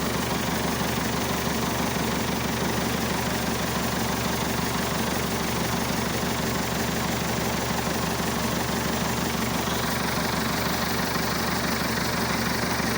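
Massey Ferguson Super 90 tractor's Perkins diesel engine idling steadily, running normally now that its faulty negative ground cable has been replaced.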